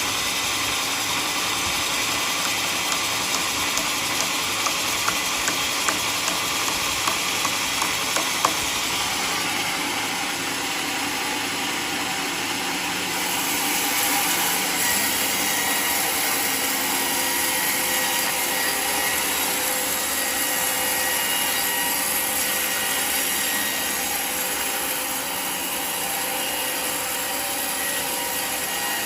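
Portable sawmill sawing a mahogany log, a steady machine noise. A run of sharp ticks about twice a second comes in the first third, and the sound turns brighter and a little louder about halfway through.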